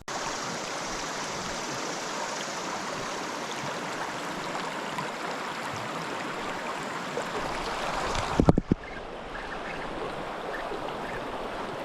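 Creek water rushing steadily. About eight and a half seconds in there are a few low knocks, and the rushing drops to a quieter level.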